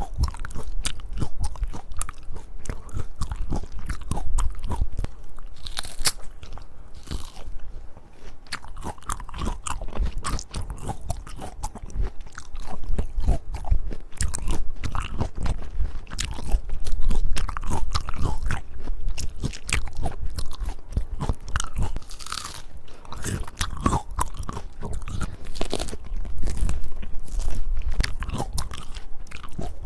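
Close-miked ASMR eating of peach: crisp bites and crunchy chewing of the firm flesh, with dense, irregular crackles throughout.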